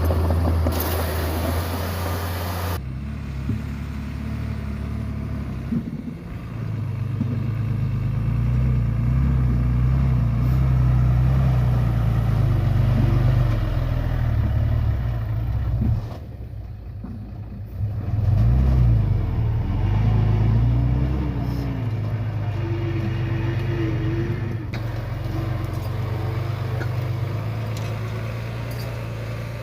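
Heavy diesel engines of earthmoving machinery (bulldozer and dump trucks) running and working, their pitch rising and falling as they take load. The sound changes abruptly several times.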